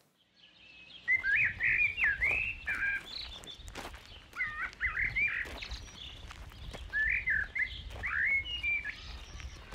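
A songbird singing short warbled phrases in three bursts with pauses between, starting about a second in, over a low steady background rumble.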